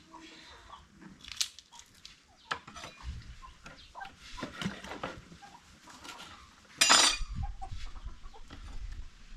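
Chickens clucking, with light clinks of pots and utensils and a short loud burst about seven seconds in.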